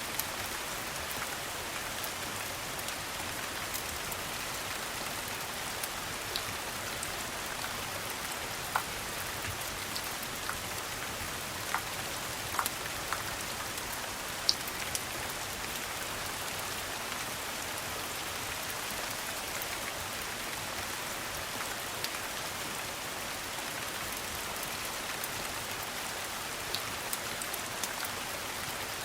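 Steady rain falling, an even hiss of drops, with a few sharp pops here and there.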